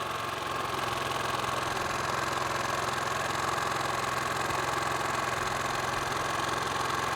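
Champion 4500-watt inverter generator's 212cc single-cylinder engine running steadily just after a remote start: an even hum with a high whine that dips slightly in pitch in the first second, then holds steady.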